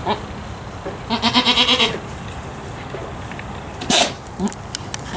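Boer goat bleating once, a pulsing, wavering call of about a second, followed a couple of seconds later by a short sharp burst of noise. The unusual calls may come from the doe being ill, as the owner suspects.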